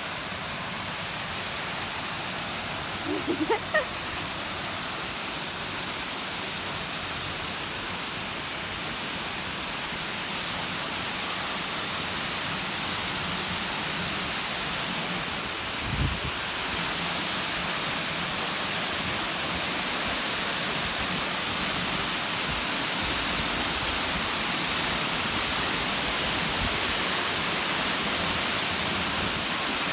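Waterfall: creek water cascading down a rock face into a pool, a steady rushing that grows slowly louder. A brief high call comes about three seconds in, and a single low thump about halfway through.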